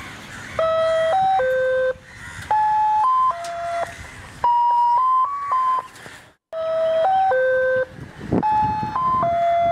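Electronic ice-cream-vendor jingle: a simple beeping melody in short phrases with gaps between them. It cuts out briefly about six and a half seconds in, and the same tune starts over.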